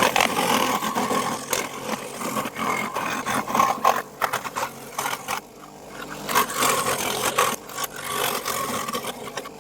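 A power tool with an electric motor running on wood, with scraping and clicking as it works. It eases off about four seconds in and comes back up about a second and a half later.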